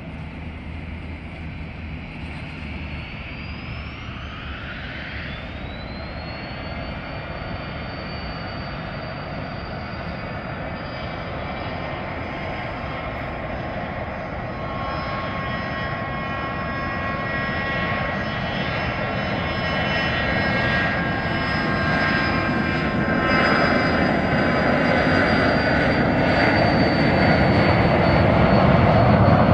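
Twin JT15D turbofan engines of a Hawker Beechcraft 400XP business jet spooling up for takeoff. A whine rises sharply in pitch about four to six seconds in, then holds high and steady over a rumble. The sound grows steadily louder throughout.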